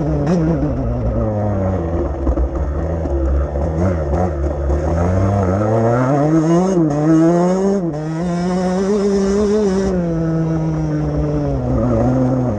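Motocross bike engine running hard, its pitch rising and falling repeatedly with the throttle.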